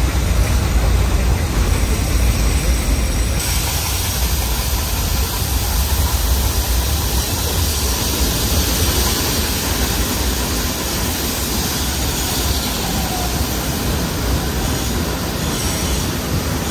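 Metre-gauge steam-hauled mountain train running, heard from inside a carriage at the open window: a steady, loud low rumble of the wheels and carriages on the track.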